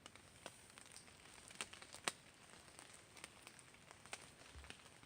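Near silence with faint, scattered ticks and drips of light rain falling in the woods, a few sharper taps among them.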